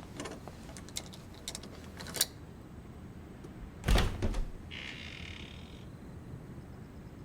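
Scattered light clicks and knocks, then a louder thump about four seconds in, followed by a short hiss.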